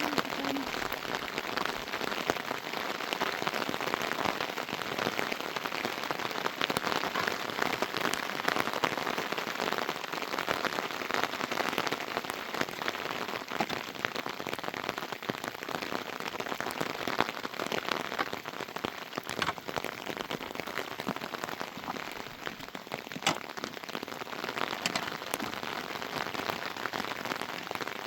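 Steady rain falling, with dense, sharp patter of individual drops striking a surface.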